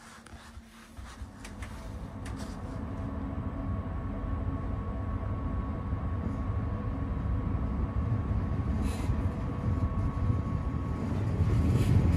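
Sleeping-car night train pulling out of a station and gathering speed. Its low running rumble builds steadily from about two seconds in, with a faint steady hum above it.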